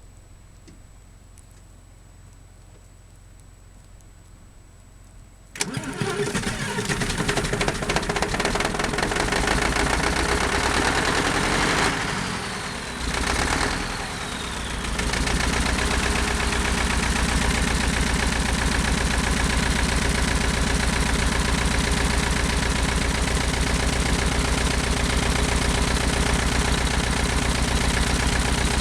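Scania 142 V8 diesel engine in a tractor, cold-started: after a few quiet seconds the engine starts suddenly about five and a half seconds in, falters briefly about halfway through, then settles and runs steadily.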